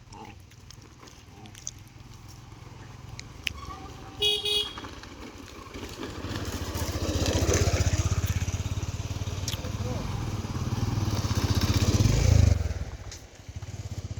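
A motor vehicle, most likely a motorcycle, going by close: a short horn toot about four seconds in, then its engine running loudly for several seconds, loudest just before it drops away near the end.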